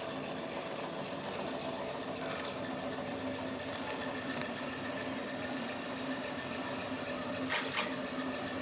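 Velleman K8200 3D printer running a print, its stepper motors giving a steady whining hum. Two sharp ticks come near the end.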